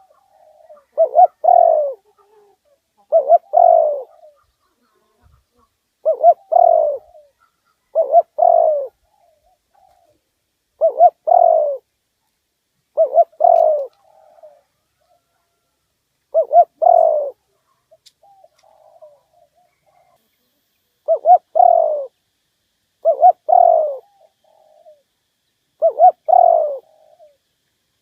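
Spotted dove cooing its repeated territorial call: phrases of two short coos and a longer falling coo, about one every two to three seconds, with faint softer notes in some gaps.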